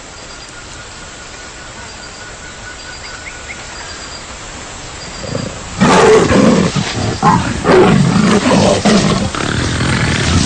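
Jaguars snarling and roaring in a loud, irregular spat that breaks out about six seconds in over faint jungle ambience: a female rebuffing an inexperienced young male.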